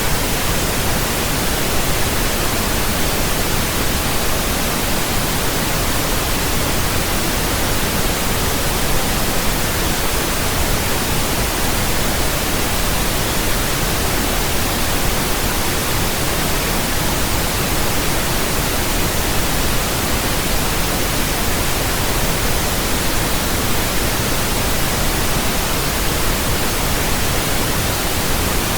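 Steady pink noise: an even, unchanging hiss spread across all pitches, with more weight in the low end than white noise.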